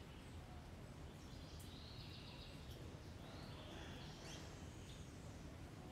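Faint birdsong: a few short high chirps and a rising call about four seconds in, over a low steady background rumble.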